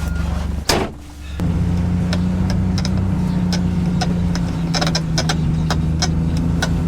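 Vehicle engine running steadily while driving, with a sharp knock about a second in, a short quieter moment after it, and scattered light clicks once the hum returns.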